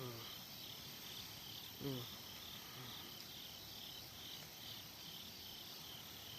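Autumn insects chirping at night in a steady, regular rhythm, high-pitched and evenly repeated. About two seconds in, a man briefly murmurs.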